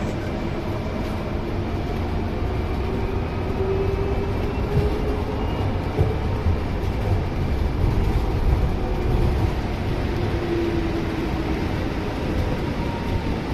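Scania city bus heard from inside the cabin while under way: a steady engine and road rumble, with a faint engine tone rising and falling as the bus changes speed, and a few light knocks and rattles over bumps partway through.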